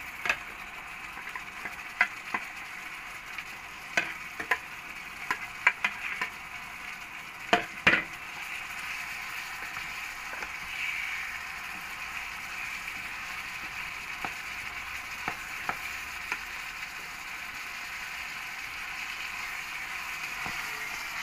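Chicken frying in oil with a steady sizzle as broccoli florets are tipped in and stirred with a plastic spoon. A string of sharp knocks and clatters comes in the first eight seconds or so, then only the sizzle and stirring.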